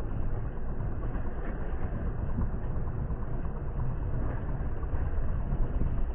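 Steady low rumble of a moving vehicle, without a clear engine note.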